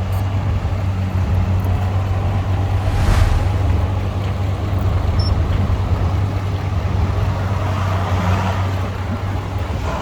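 Heavy diesel engine running steadily with a deep, even hum, with a brief hiss about three seconds in.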